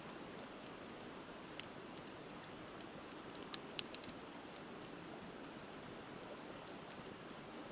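Wood bonfire crackling, with scattered sharp pops, the loudest a quick pair a little before four seconds in, over the steady rush of river water.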